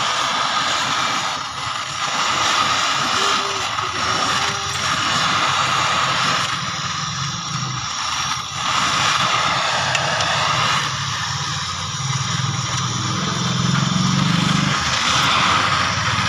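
Oxy-acetylene welding torch flame giving a steady hissing rush, with a low rumble underneath.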